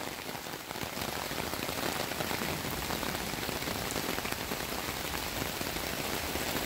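Heavy rain pouring steadily, mixed with the rush of muddy flash-flood runoff flowing across a yard.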